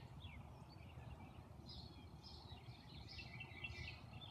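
Songbirds chirping faintly, with a quick series of short high chirps in the second half, over a low steady background rumble.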